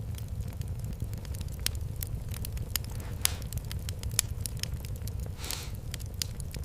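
Wood fire in a fireplace crackling: irregular sharp pops and snaps over a steady low rumble of the flames, with a short hiss about five and a half seconds in.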